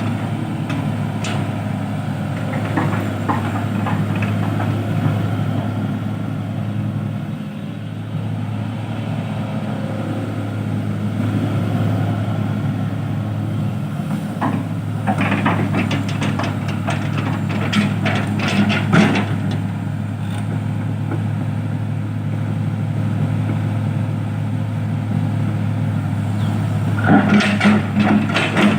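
Heavy diesel engine of construction equipment running steadily at a constant pitch, with two spells of clattering knocks, about halfway through and again near the end.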